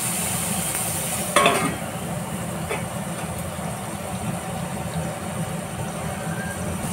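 Onion-tomato masala sizzling in hot oil in a metal kadhai as it is stirred with a spatula. About a second and a half in, a metal lid clanks onto the pan, and the sizzle goes on more muffled under the lid.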